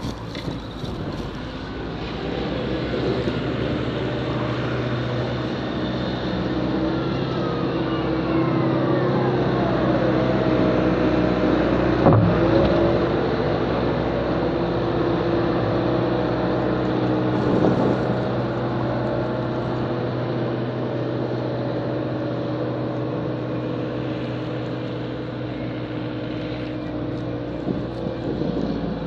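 Snow-plowing vehicle's engine running steadily under load, with a falling whine around the middle and a sharp knock about twelve seconds in.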